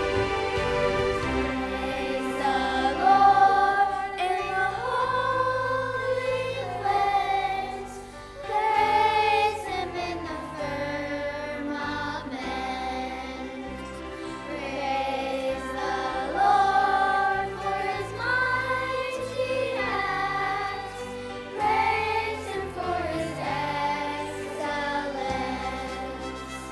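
A choir singing a praise song over instrumental accompaniment.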